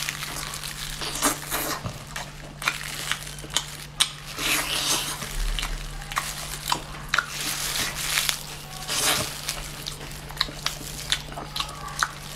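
Close-up eating of chili-coated octopus tentacles: biting and wet chewing, with many irregular sharp mouth clicks and smacks.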